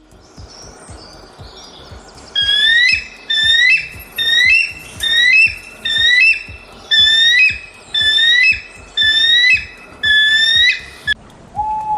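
A bird giving a loud, short call over and over, about one and a half calls a second, starting about two seconds in and stopping shortly before the end. Near the very end a different steady whistle-like note begins.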